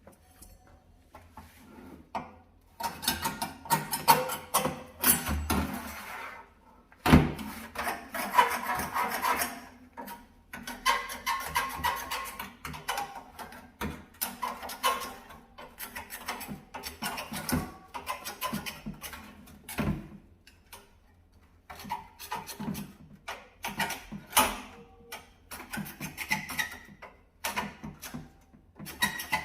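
Stiff brush scrubbing a dirty stove in bursts of quick rasping strokes with short pauses between them. A sharp knock about seven seconds in is the loudest sound.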